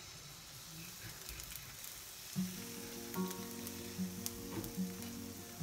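Pancake batter sizzling as it meets hot oil in a non-stick frying pan while it is ladled in and spread. Soft background music comes in about two seconds in.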